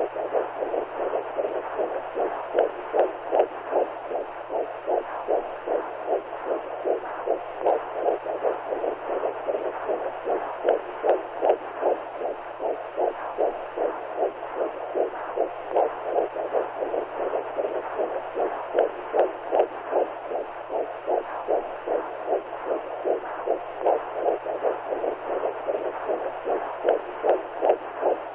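Womb sound for soothing a newborn: an even, whooshing heartbeat-like pulse, about two beats a second, over a faint steady low hum.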